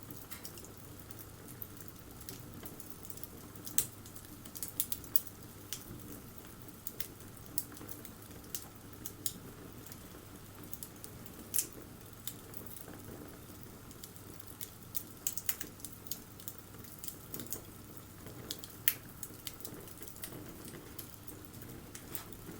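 Wood bonfire crackling: irregular sharp snaps and pops, a few of them louder, over the steady low rush of the flames.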